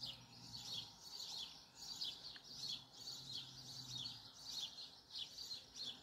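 Small birds chirping, a steady run of short high chirps about three a second.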